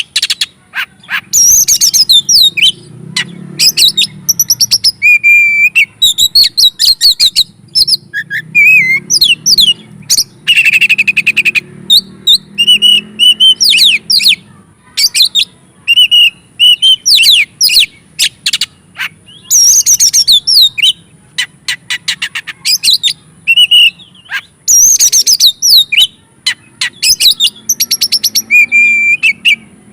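Oriental magpie-robin singing loudly and without let-up in its fired-up 'ngobra' style: a rapid, varied run of whistles, trills and rattling chatters with only brief pauses, the aggressive song used as a lure to rouse other magpie-robins.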